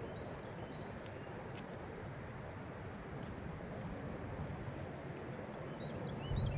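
Outdoor park ambience: a steady low rush of background noise with a few faint, short, high bird chirps scattered through it.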